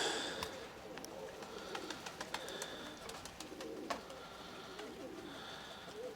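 Nikolaev pigeons cooing repeatedly, low wavering coos, with scattered sharp clicks over them.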